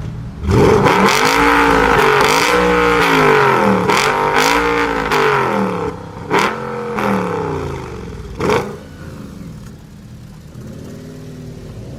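A high-performance car engine and exhaust revving hard as the car accelerates away, the pitch climbing and dropping several times, with a few sharp cracks along the way. It fades after about nine seconds, leaving a quieter engine running.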